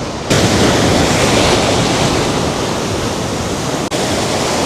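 Ocean waves breaking and washing up a beach, a steady rushing noise that turns abruptly louder near the start.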